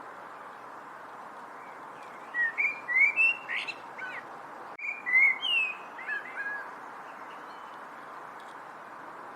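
A songbird singing two short bursts of chirps and quick whistled glides, the first about two seconds in and the second around five seconds, over a steady background hiss.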